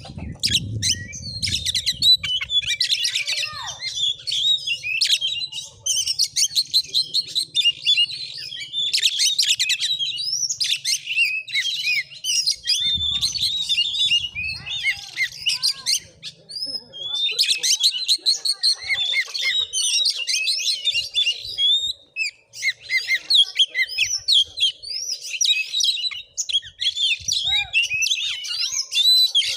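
Oriental magpie-robin (kacer) singing a fast, varied run of chirps and whistles in long phrases with a few short breaks.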